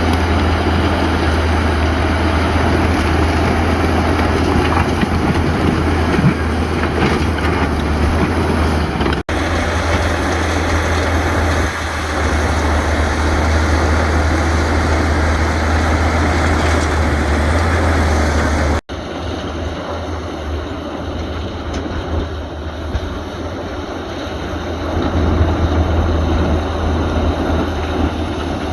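Heavy diesel earthmoving machinery, bulldozer and dump-truck engines, running steadily with a deep low hum. The sound breaks off abruptly twice and picks up again slightly changed.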